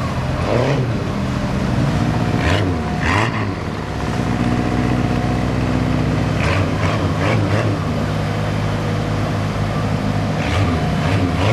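Heavy diesel engine of large earthmoving machinery running under load. Its revs dip and rise several times, with short bursts of noise at each change.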